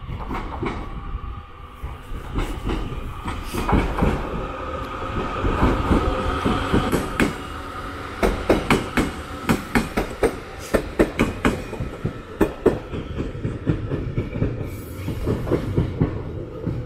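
A local train passing close by, its wheels clacking in a quick, regular run over the rail joints, with a steady tone from the running gear underneath.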